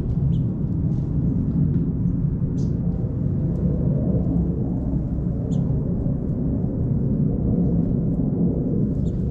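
A steady low rumble, with a few short high bird chirps scattered through it.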